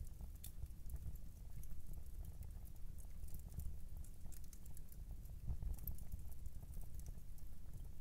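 Wood fire crackling in a fireplace: irregular sharp pops and snaps over a low steady rumble of the flames, with a clock ticking.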